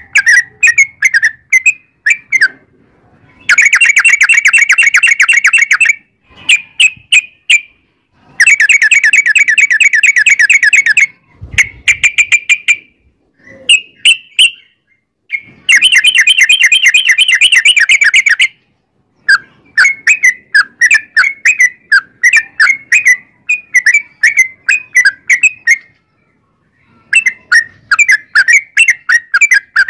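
Yellow-vented bulbul (trucukan) singing in loud, bubbly chattering phrases. These are broken by three long, fast rolling trills, each lasting two to three seconds.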